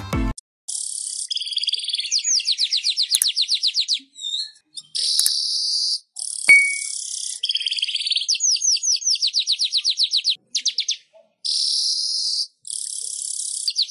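Manyar (weaver bird) song: harsh, buzzy, hissing phrases alternating with rapid high ticking trills of about a dozen notes a second, in repeated bouts with short pauses. A single sharp click about halfway through.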